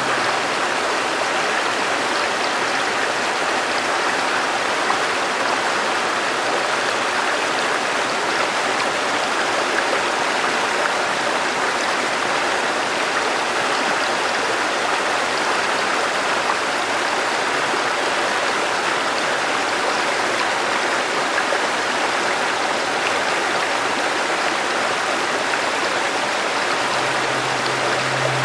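River water flowing, a steady continuous rushing with no breaks. A low held music note comes in near the end.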